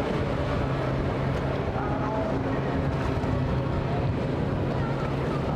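Motorboat engine running steadily as a boat passes through the inlet, a low even hum with water and wind noise around it.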